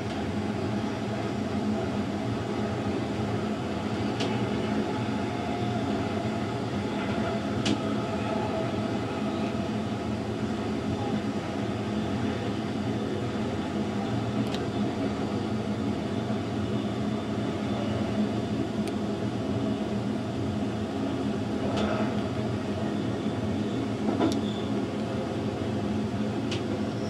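Narrow-gauge electric train running along the track, heard from inside the rear of the train: a steady rumble with a constant hum and a few faint sharp clicks spaced several seconds apart.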